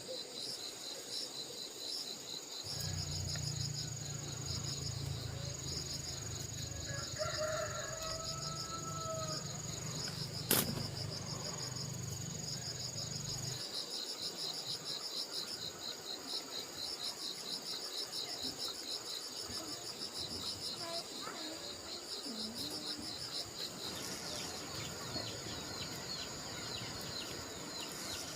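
Crickets and other insects chirping steadily in rapid high pulses with a continuous high trill. A faint rooster crow comes about 7 to 9 seconds in, and a low steady hum runs from about 3 to 13 seconds in.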